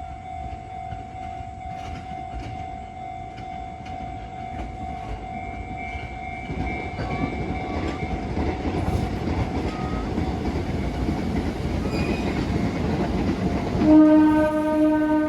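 Fujikyu Railway Thomas train pulling into the platform, its running noise growing louder, then sounding a loud, steady horn near the end.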